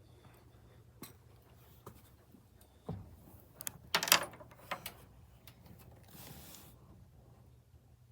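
Scattered light clicks and knocks, loudest in a quick cluster of metallic clinks about four seconds in, with a brief hiss a little after six seconds.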